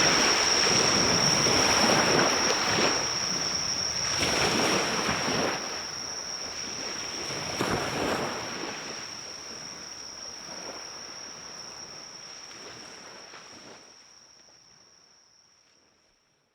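Waves breaking and washing on a shore in surges every couple of seconds, with insects trilling on one steady high note throughout. Everything fades out gradually over the second half and ends in silence.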